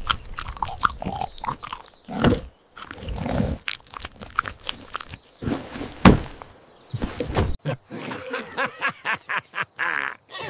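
Cartoon sound effects: a string of short clicks and knocks mixed with several short, low grunt-like vocal noises.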